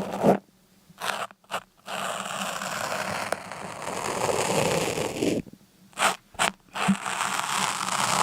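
Continuous scraping, rustling noise that breaks off twice into short pauses interrupted by brief scrapes.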